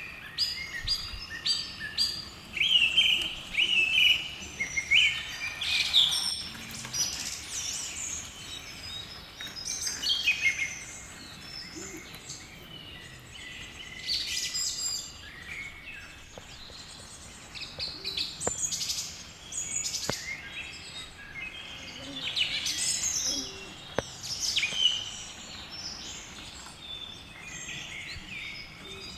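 Several birds chirping and singing in repeated short phrases, coming in bouts, busiest in the first few seconds.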